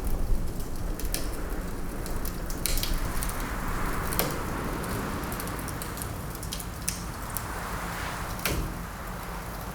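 Wood fire crackling, with scattered sharp pops over a steady low rumble. Winter wind blows, swelling and fading through the middle.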